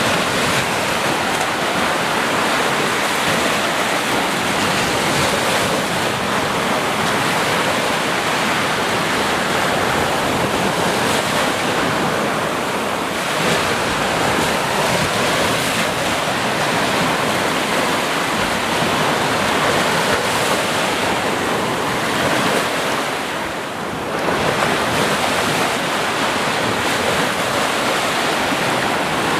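Sea surf: waves washing onto shore in a continuous hiss, easing off briefly about three-quarters of the way through before the next wave comes in.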